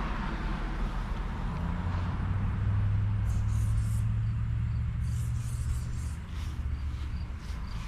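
A motor vehicle's engine rumbling low and steady, strongest in the middle and easing off near the end, with a hiss of traffic fading in the first second. Light rustling in the second half.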